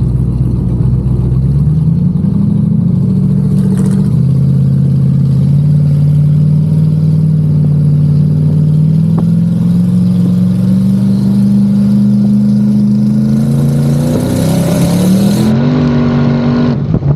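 Pontiac G8's twin-turbo LS V8 under way and accelerating. Its pitch climbs, drops near 4 s as if on a gear change, then rises steadily again and faster toward the end before falling off.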